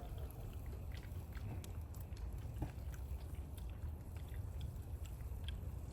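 A person chewing crispy, crumbly grilled chicken skin: irregular small crunches and clicks over a steady low rumble.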